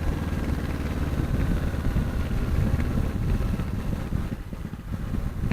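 Kawasaki 650 parallel-twin motorcycle engine running at a steady cruise, with wind noise on the helmet microphone, easing slightly near the end.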